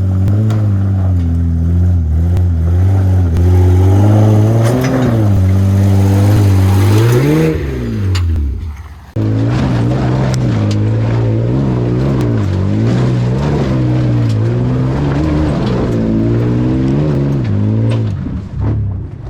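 Straight-piped Toyota Land Cruiser 80-series 1FZ-FE inline-six running loud with its muffler cut off, its note rising and falling with the throttle as it drives the trail. It swells and falls sharply about eight seconds in, breaks off abruptly, then resumes.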